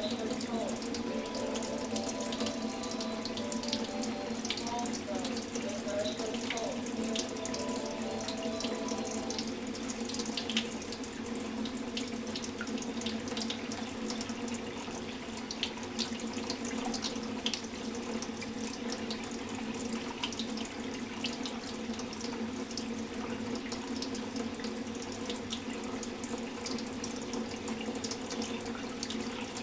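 Tap water running steadily into a sink, with scattered small splashes as a lovebird bathes in the stream. A few short steady notes come in the first nine seconds.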